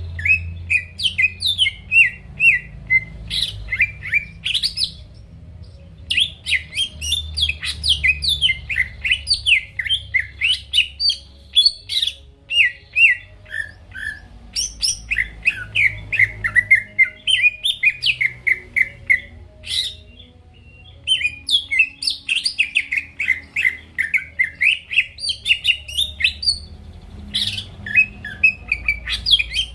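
Green leafbird (cucak ijo) in full song: a rapid, continuous run of quick, sharp chirping notes, with brief pauses about five seconds in and again around twenty seconds. A faint low hum sits underneath.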